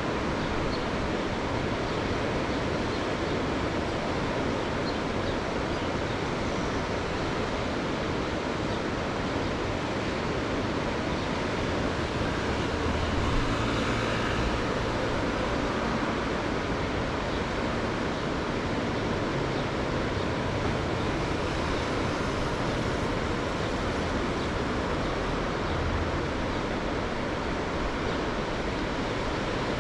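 Mediterranean Sea surf: waves washing in with a steady rushing hiss, swelling slightly about halfway through.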